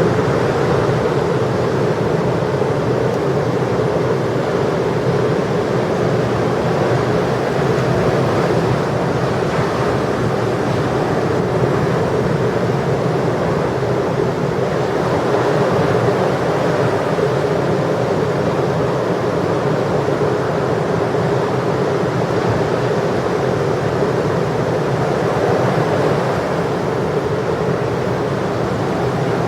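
Ocean surf breaking, a continuous even rush of large waves, with wind blowing on the microphone.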